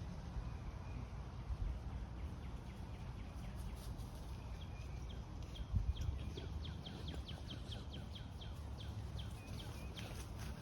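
A small bird calling in a quick series of short, falling chirps, about four a second, for several seconds starting about four seconds in, over a steady low rumble.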